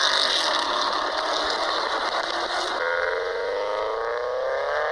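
Car engine and exhaust under hard acceleration. The note climbs steadily in pitch as the revs rise, with a change in the sound about three seconds in.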